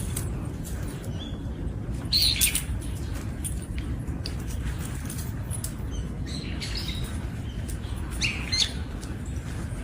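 Birds chirping in short calls, loudest about two seconds in and again near the end, over a steady low rumble.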